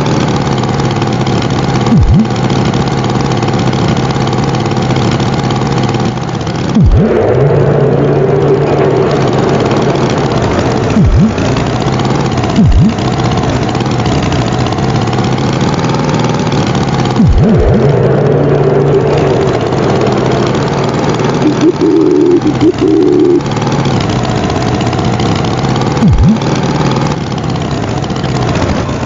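Cartoon tractor engine sound effect running steadily, with about six short low thumps and three held tones of a second or two laid over it.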